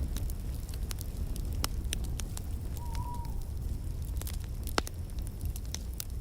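Wood fire crackling in a fireplace: irregular sharp pops and snaps over a steady low rumble of the flames, with a brief faint whistle about halfway through.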